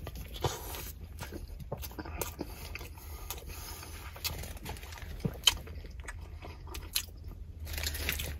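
Close-up chewing of a mouthful of poutine beef dip sandwich (soft bun, shaved beef, cheese curds and gravy), with scattered wet mouth clicks and smacks. A low steady hum runs underneath.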